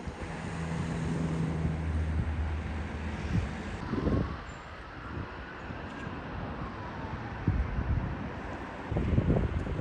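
Street noise with a vehicle's engine humming past in the first few seconds, over wind on the microphone.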